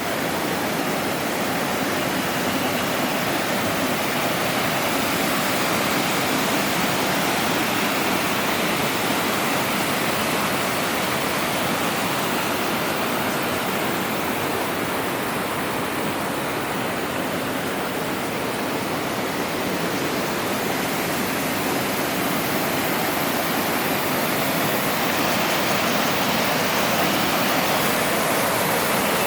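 Mountain stream in spate, water rushing steadily over rocks.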